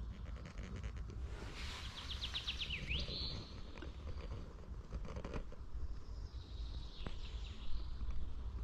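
A bird sings a short, fast run of notes that falls and then sweeps upward, about two seconds in. Scattered small crunches and clicks sound over a steady low rumble.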